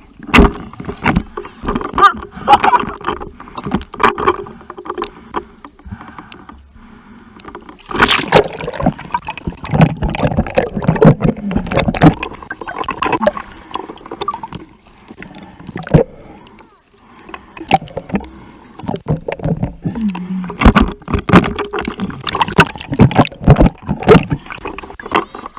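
Sea water splashing and sloshing right at the microphone in irregular bursts, with brief quieter pauses.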